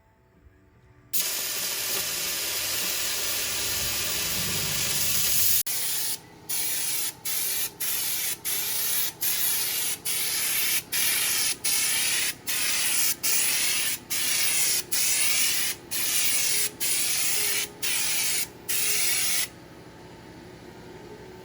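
Air-powered spray gun spraying truck bed liner coating: a continuous hiss for about four seconds, then a string of short trigger bursts, about three every two seconds, that stops near the end, leaving a fainter steady noise.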